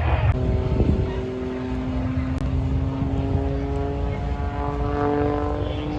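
Edge 540 aerobatic plane's piston engine and propeller droning steadily, its pitch rising slowly.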